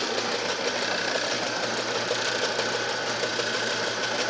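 Homemade can-crusher machine running steadily: its motor, cogged V-belt drive and crushing wheels make a continuous mechanical hum with a fast, even ticking.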